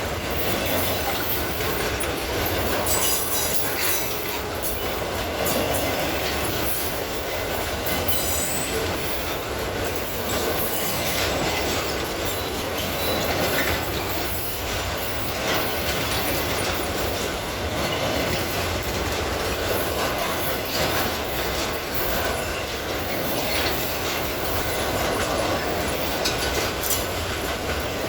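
Long freight train of pulp wagons rolling past steadily, its wheel noise on the rails swelling and easing every couple of seconds as the cars go by.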